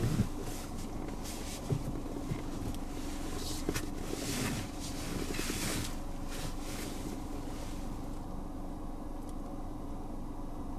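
A Suzuki Jimny Sierra on the move, its engine running steadily under road noise. Irregular short scraping and rattling noises come through the first two-thirds and ease off near the end.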